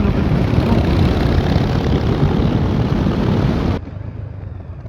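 Motorcycle riding at speed, with heavy wind rush on the onboard microphone over the engine's rumble. About four seconds in, the sound drops suddenly to a quieter, duller engine rumble.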